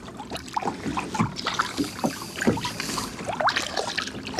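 Water splashing and lapping against a kayak, with small irregular knocks and splashes, while a hooked trout is worked in alongside the boat.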